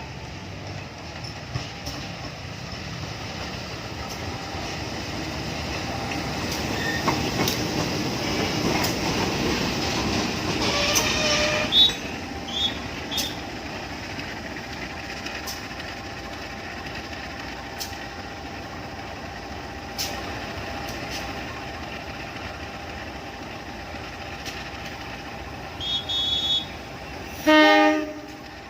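A train passing on the rails, its wheels clicking over the rail joints, growing louder to a peak about ten seconds in and then running on steadily. Short horn toots sound around twelve seconds, and a loud horn blast comes near the end.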